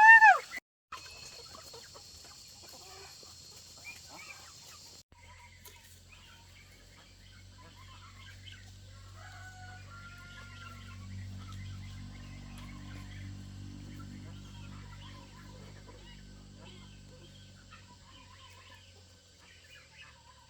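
A rooster crows at the very start, a loud call that rises and falls in pitch. After it come scattered faint chirps and a low steady hum that builds and then fades away.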